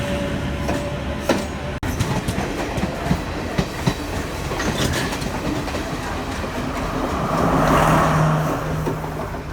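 Train running on the rails, wheels clacking over rail joints with a few sharp clicks, and a steady low hum swelling near the end.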